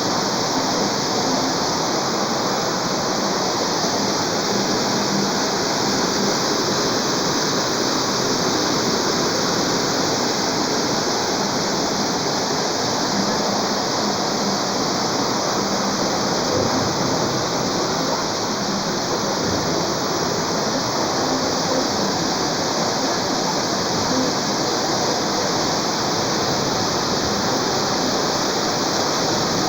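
Heavy rain pouring down in a steady, even hiss with no let-up.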